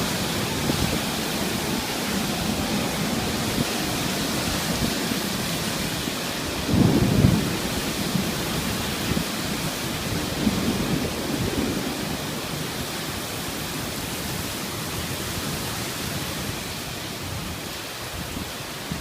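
Torrential rain pouring down in a steady, dense hiss. About seven seconds in comes a brief, louder low rumble, with weaker swells a few seconds later.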